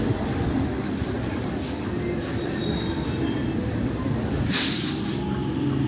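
Local train running along the platform with a steady low rumble of wheels on rails and faint wheel squeal, and a short loud burst of hiss about four and a half seconds in.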